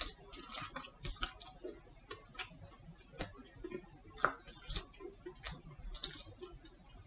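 A person chewing chicken nuggets, with irregular mouth clicks and smacks and a sharper click about four seconds in.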